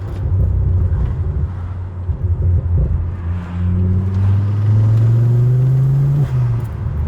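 Ford Focus ST engine pulling hard on the road, its pitch climbing steadily for about three seconds, then falling suddenly about six seconds in as the driver shifts up.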